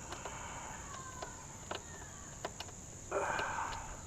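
Steady high-pitched chirring of crickets, with scattered sharp clicks and a brief scraping rustle about three seconds in as hands work at the motorcycle's seat fittings.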